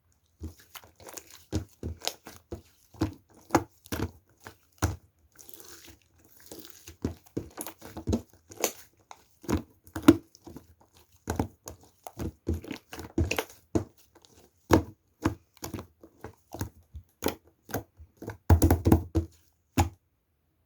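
Irregular taps, knocks and crinkling from objects being handled close to the microphone, about one or two a second, with a denser flurry near the end.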